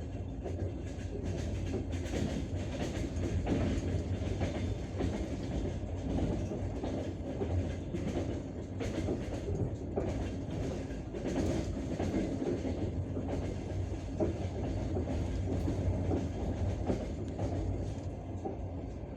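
Passenger train wheels clattering over rail joints, many irregular clacks over a steady running rumble, heard from inside the carriage.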